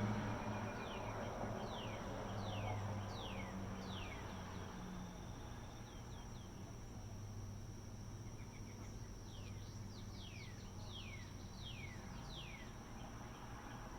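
A steady, high insect chorus with a bird singing runs of quick, falling whistled notes, two phrases of about five notes each. A low machine hum fades out over the first few seconds.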